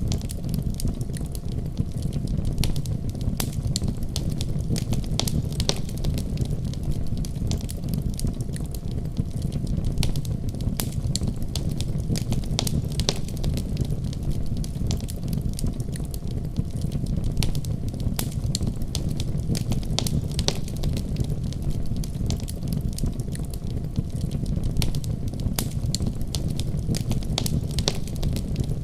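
Fireplace crackling: irregular sharp pops and snaps from burning wood over a steady low rumble.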